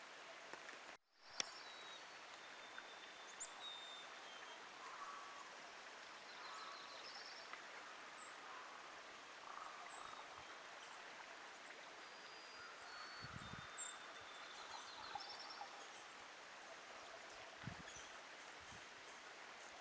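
Faint outdoor ambience: a steady hiss with scattered short bird or frog chirps and trills. There is a brief dropout about a second in, then a click, and a few dull low thumps in the second half.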